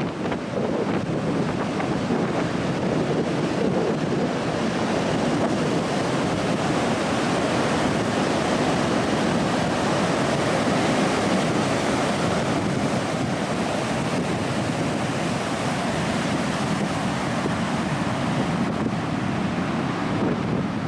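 Loud, steady wind buffeting the microphone, mixed with the continuous wash of surf breaking on an ocean beach.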